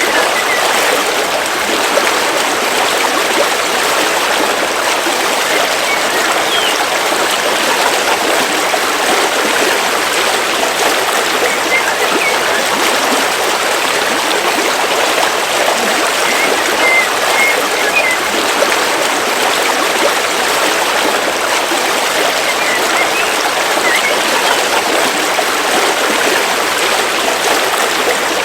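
River water flowing steadily, a constant even rush of running water. A few faint short bird chirps come through now and then.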